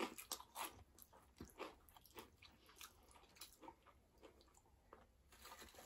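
Faint chewing of crunchy cheese snacks such as chips and corn puffs, with soft, irregular crunches a few times a second.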